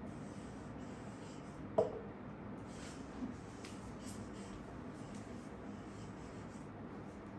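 Quiet room tone with one sharp click about two seconds in and a softer knock a second or so later, like small objects being handled.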